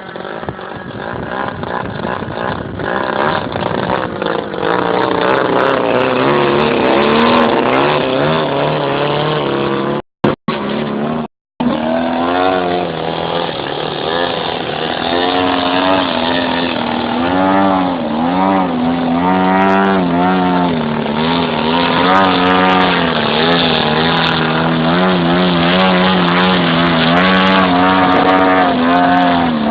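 Desert Aircraft DA-100 twin-cylinder two-stroke petrol engine of a large RC Yak 54 model aeroplane running in flight, its pitch rising and falling again and again. The sound cuts out twice briefly about ten to eleven seconds in.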